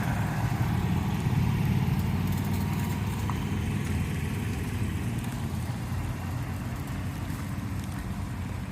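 Golf cart engine running with a steady low rumble that slowly fades away.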